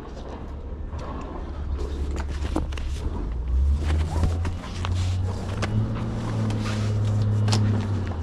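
Flatbed tarp and tie-down gear being handled: crinkling tarp and scattered clicks and clanks of bungee hooks. Under it runs a low steady engine hum that steps up slightly in pitch about halfway through.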